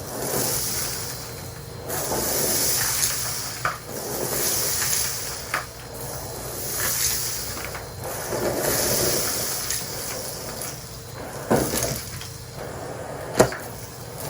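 Henry cylinder vacuum cleaner running steadily while sucking up grit, its rush of air swelling and fading about every two seconds as the tool is worked back and forth. Sharp clicks of debris rattling into the tool and hose come now and then, the loudest near the end.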